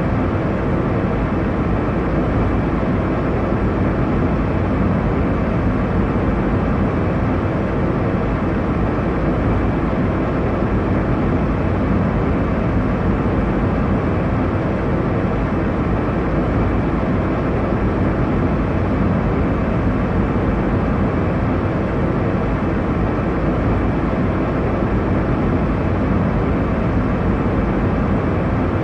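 Steady airliner cabin noise in flight: a constant low rumble and rush of engine and airflow noise, with no changes or distinct events.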